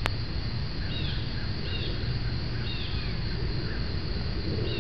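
A bird calling outdoors, a short, high, arching note repeated about once a second, over a steady low rumble. A single sharp click sounds at the very start.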